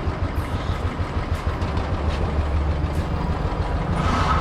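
Royal Enfield Classic 350's single-cylinder engine idling with a steady low pulsing beat, during an exhaust emissions test with the analyser probe in the tailpipe.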